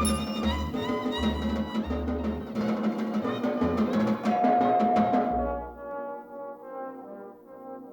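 Orchestral cartoon score with brass and percussion, busy and loud for about five seconds, then thinning to a softer, quieter passage.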